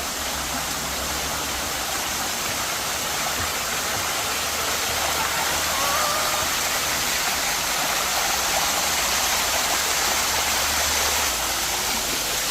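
Waterfall cascading down rock steps in a steady rush of falling water, with the flow running high.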